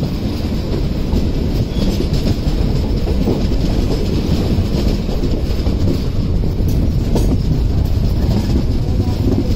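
Steady rumble and clatter of train wheels on the rails, heard from beside a coach of a moving train while a rake of passenger coaches runs past on the next track.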